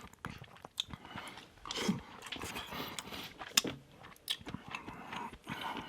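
Close-miked chewing of a mouthful of garlic butter shrimp and rice: soft wet mouth sounds with scattered small clicks.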